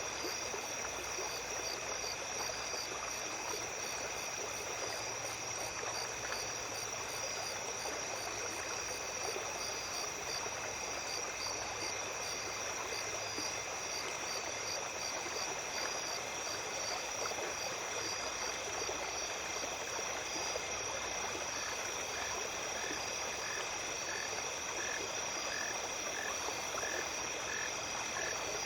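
Small stream running steadily at night under a chorus of calling insects: steady high-pitched trills over the water's hiss, with pulsed chirping and, in the second half, a repeated chirp about twice a second.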